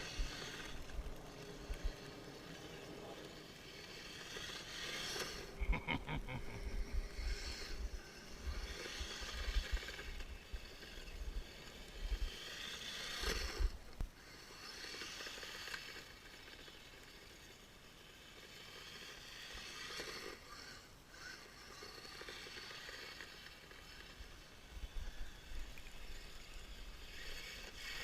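Kyosho Blizzard RC snowcat driving through snow, its electric drive and tracks churning in uneven swells, with irregular wind rumble on the head-mounted camera's microphone.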